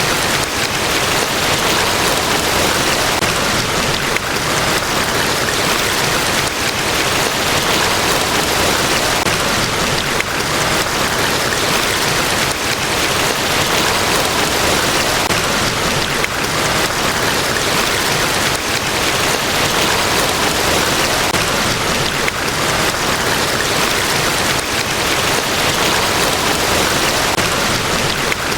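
Niagara Falls pouring: a steady, even rush of falling water, with no breaks or changes.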